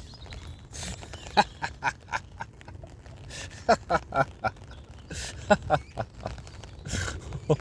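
A man laughing in rounds of quick, rhythmic ha-ha pulses as part of a laughter yoga laugh-along, with breaths drawn in between the rounds.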